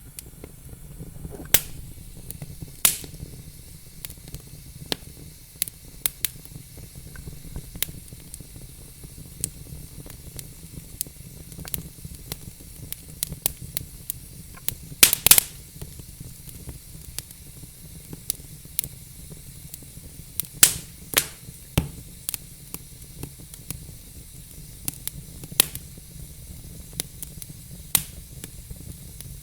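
Burning logs in a fireplace crackling, with irregular sharp pops of varying loudness over a low steady rumble. The loudest pops come about halfway through and again about two-thirds in.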